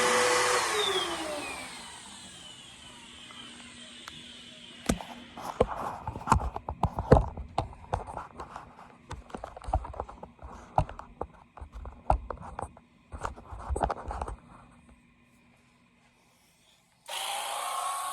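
Bissell Power Force upright vacuum's motor winding down after being switched off, its pitch falling away. A run of clattering knocks and bumps follows for several seconds, and a steady whirring noise starts abruptly near the end.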